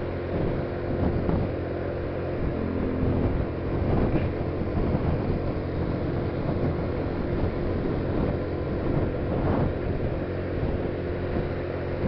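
Steady engine drone and road noise of a car moving at speed, with wind noise on the microphone.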